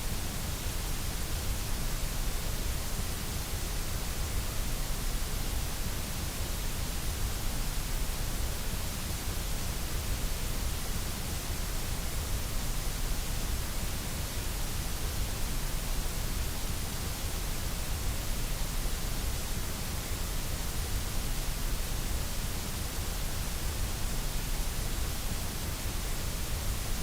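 Steady generated white noise: an even, unchanging hiss with a deep rumble underneath.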